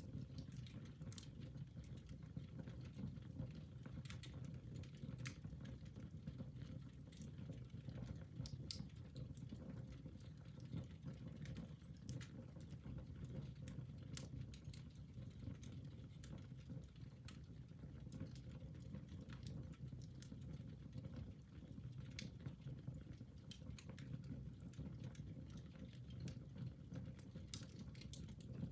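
Fire burning in a fireplace: a low steady rumble of the flames with scattered, irregular sharp crackles and pops.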